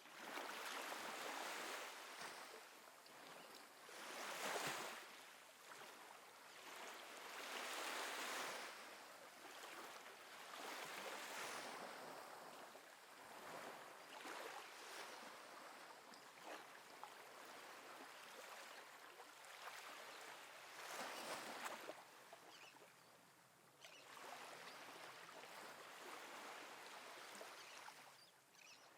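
Faint ocean waves washing gently in, with wind, the noise swelling and easing every few seconds.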